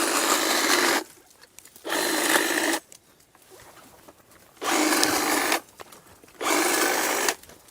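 A power saw cutting through brush in four short bursts of about a second each, stopping and starting between cuts.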